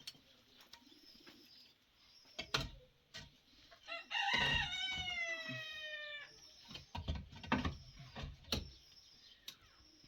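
A rooster crows once, a single drawn-out call of about two seconds that falls slightly in pitch at the end. Faint high chirping of small birds and a few short knocks are heard around it.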